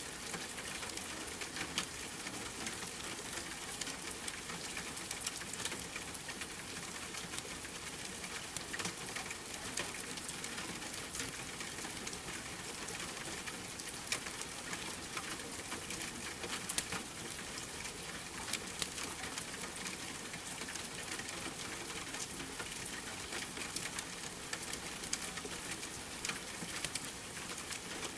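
Steady rain with a wood fire crackling: a constant hiss of rain and many small, irregular sharp pops and snaps throughout.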